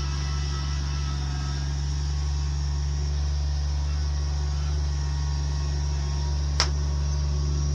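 A machine engine running steadily at a constant speed, a low even drone, with one sharp click about six and a half seconds in.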